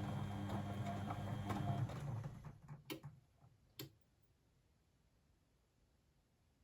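Blomberg WAF 7442 SL washing machine's motor turning the drum with a steady hum, winding down about two seconds in. Two sharp clicks follow, then near silence as the drum pauses between turns.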